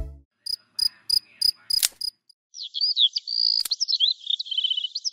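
A few short clicks, each with a high beep, then from about halfway in, rapid high-pitched chirping with quick up-and-down sweeps and trills.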